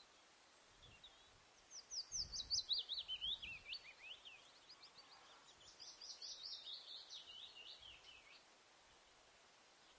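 Birdsong outdoors: a bird gives two runs of quick, high chirps, each note sliding down in pitch, the first about two seconds in and the second from about five and a half to eight seconds, over faint steady background noise.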